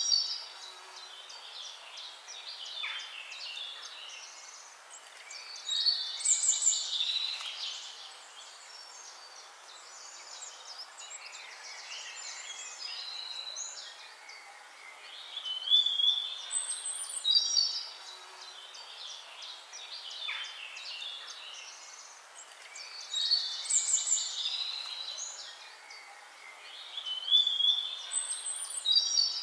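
Songbirds singing and chirping in bursts every few seconds, high whistled phrases and quick chirps over a faint steady hiss.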